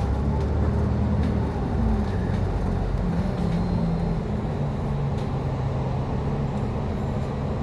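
Motor vehicle travelling on a road: a steady low engine drone with tyre and road noise, the engine's pitch drifting slightly up and down.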